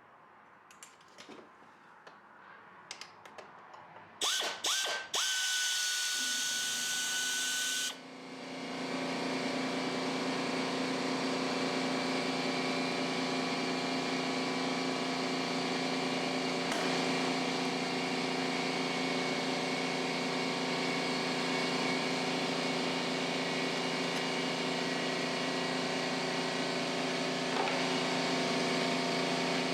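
A power drill-driver runs in a few short spurts and then whines steadily for about four seconds, backing out fasteners. At about eight seconds it stops, and a steady machine hum with a low drone comes up and runs on.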